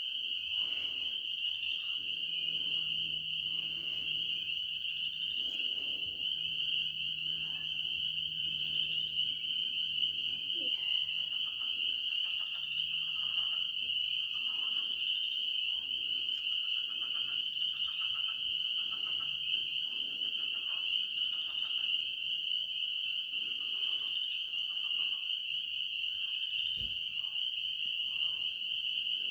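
A steady, high-pitched night chorus of calling frogs or insects, one continuous trill, with a faint low hum underneath for much of the time.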